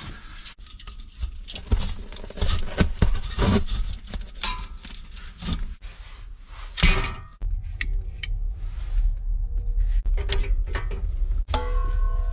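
Assorted clinks, knocks and rustles of gear being handled while a homemade heating stove is set up and lit. From about halfway, a low rumble of wind buffets the microphone.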